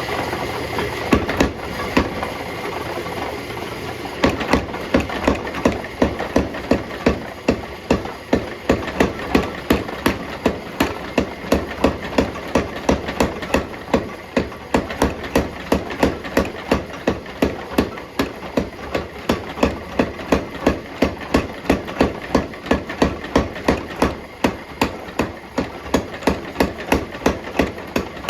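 Hammer blows on hot steel bar stock at the anvil, struck in a steady rhythm of about two a second from about four seconds in, with a few scattered knocks before that. A steady mechanical hum runs underneath throughout.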